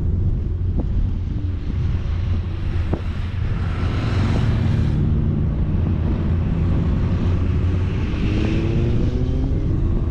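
A vehicle driving on a mountain road, its engine note low under heavy wind rumble on the camera microphone. The engine rises in pitch from about three-quarters of the way through as it speeds up.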